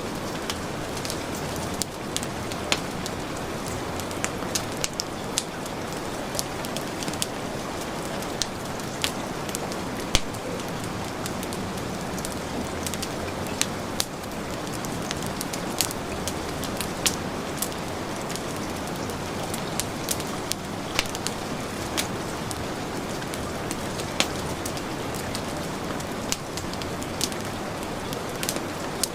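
Heavy rain falling steadily, with a wood fire crackling and popping over it in frequent irregular sharp pops, one louder pop about ten seconds in.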